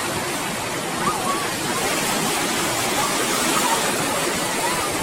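Ocean surf washing onto the shore, a steady even roar.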